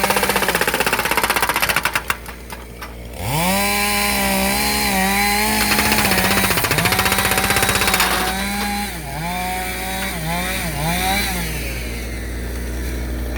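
Kubota U35S mini excavator's hydraulic breaker hammering rapidly on a log for about the first three seconds. The diesel engine then revs up and runs hard, its pitch dipping briefly several times as the hydraulics take load.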